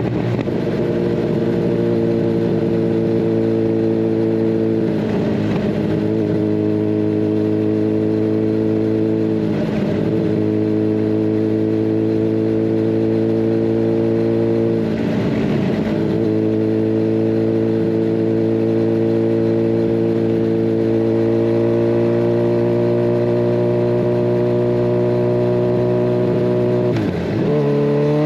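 Kawasaki Ninja 1000SX's inline-four engine cruising at a steady speed through a de-catted Scorpion Red Power exhaust, the pitch creeping slightly higher in the second half. Four brief whooshes sweep through it, about one every five seconds.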